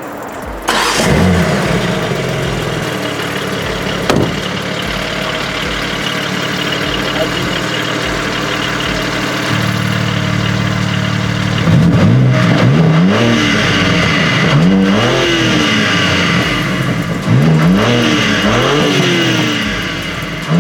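BMW M3 Competition's twin-turbo straight-six starting up about a second in, then idling steadily. In the second half it is revved several times, the pitch sweeping up and falling back with each blip.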